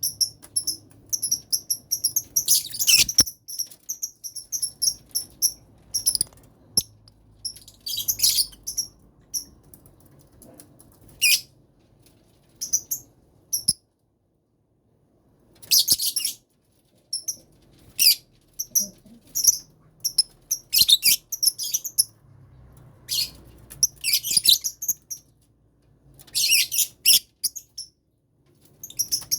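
Lovebirds chirping: rapid, shrill chirps in irregular bursts with short pauses in between, one of them about a second and a half long around the middle, and a few faint clicks.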